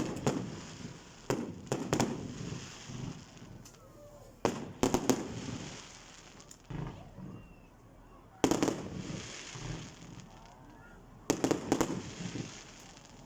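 Fireworks going off: about eight sharp bangs at irregular intervals, some coming in quick clusters, each followed by a short decaying rumble and crackle.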